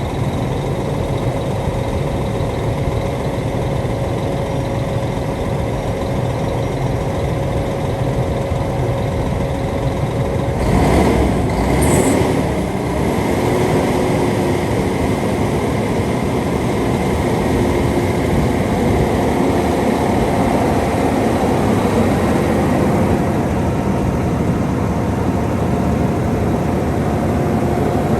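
Peterbilt 367 dump truck's diesel engine running steadily, with a brief louder stretch and a short hiss about eleven seconds in.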